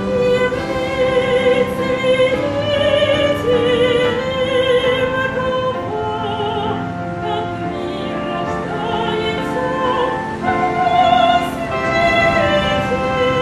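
Operatic singing: a high classical voice holds long notes with wide vibrato over a sustained instrumental accompaniment.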